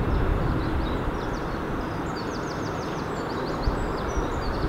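Low steady rumble of a freight train running slowly away over the tracks, with small birds chirping above it and twice breaking into a short rapid trill, about two seconds in and again near the end.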